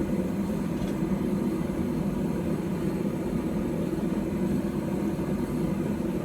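Forge running steadily, an even low rushing roar with no hammer blows, as the blade heats.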